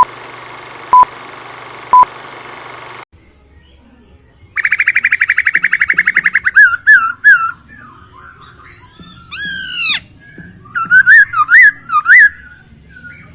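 Three short beeps a second apart over a steady hiss, which cuts off about three seconds in. Then a Chinese hwamei sings loudly: first a fast, even trill, then a run of varied whistled phrases, including one long falling note.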